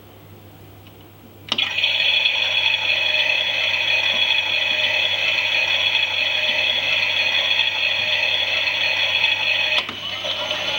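Toy Klein Miele washing machine's small electric motor and plastic gears starting suddenly about a second and a half in and turning the drum with a steady, loud whirring rattle. Near the end there is a click and the drive sound changes.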